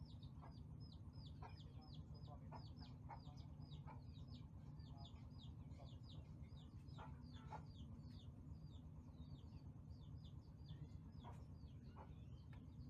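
Faint rapid bird chirping: short high chirps that each fall in pitch, several a second, over a steady low hum.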